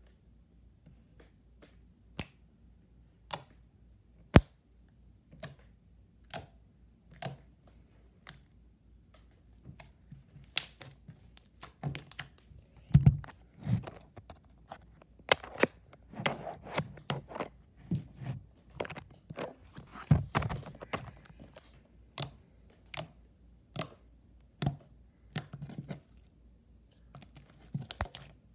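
Homemade slime being squished and played with by hand for ASMR, making short sharp pops and clicks. They come about a second apart at first and grow thicker and louder about a third of the way in.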